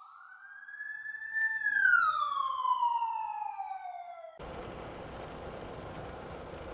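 A single siren-like wail that rises in pitch for about a second and a half, then glides down and cuts off abruptly about four seconds in. It gives way to steady wind and road noise from a moving motorcycle.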